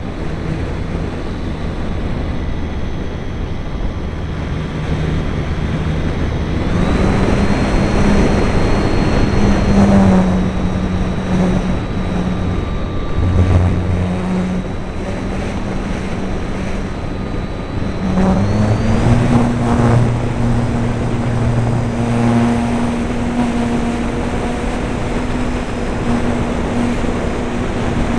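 RC airplane's motor and propeller running steadily, with a droning note and a faint high whine over rushing noise; the pitch steps up about a quarter of the way in and again about two-thirds of the way in.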